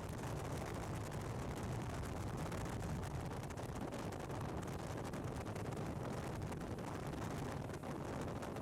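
BMW R1200GS boxer-twin engine running steadily under way, mixed with wind and road noise in a constant low rumble.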